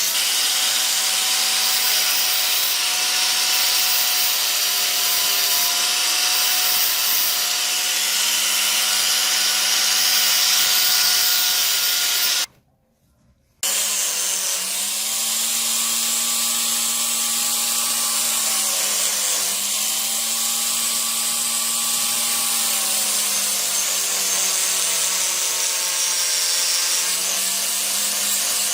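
A small electric power tool runs steadily with a rough grinding hiss as it works on metal, stripping rust. Its motor pitch sags and recovers as it is pressed under load. The sound cuts out completely for about a second, a little before halfway.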